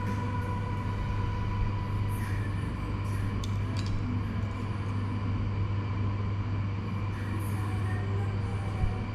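Steady low hum, with faint background music and a few light clicks.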